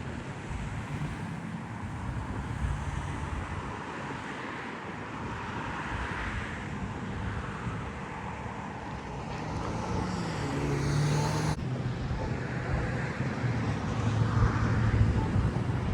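Road traffic: cars passing one after another, each swelling up and fading, with one vehicle's engine note plain about two-thirds of the way in.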